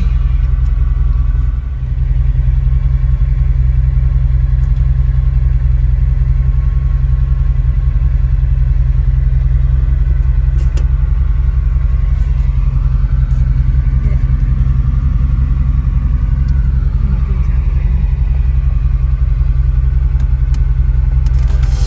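Ferrari Dino 246 GT's 2.4-litre V6 running steadily at idle, a heavy low rumble heard from inside the cabin, with a few light clicks from the dash levers.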